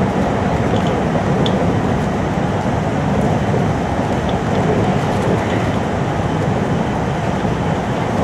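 Series 521 electric train running at speed, heard from inside a motor car: steady running noise of the wheels on the rails and the car body.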